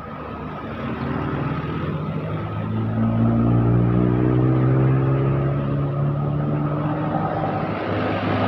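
Heavy vehicle's diesel engine approaching and passing close by, loudest about halfway through, its pitch falling slightly as it goes past.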